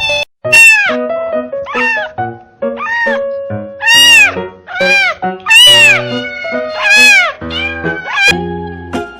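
A cat meowing over and over, short meows that each rise and then fall in pitch, about one a second, over background music.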